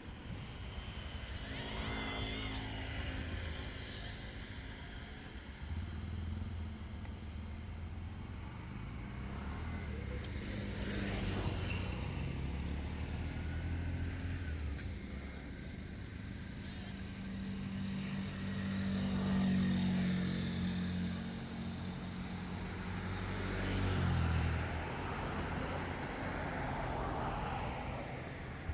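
Motor vehicle engines running, swelling and fading several times, loudest about two-thirds of the way through.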